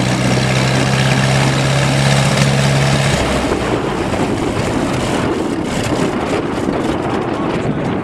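1926 Fordson tractor running on kerosene under plowing load, with a steady low hum that drops out about three seconds in. After that the engine sound is rougher and mixed with wind buffeting the microphone.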